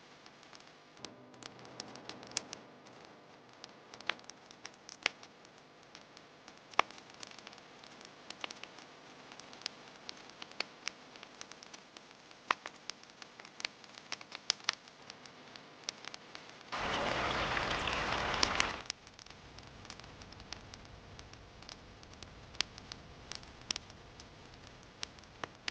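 Wood campfire crackling, with many sharp, irregular pops over a soft background hiss. About two-thirds of the way through, a louder, even hiss starts and cuts off suddenly after about two seconds.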